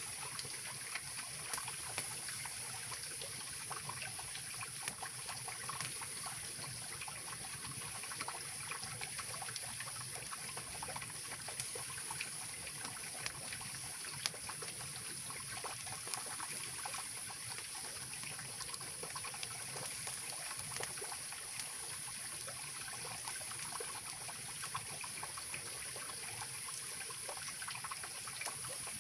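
Mountain river water rushing and trickling steadily, with scattered small crackles and pops from a wood campfire.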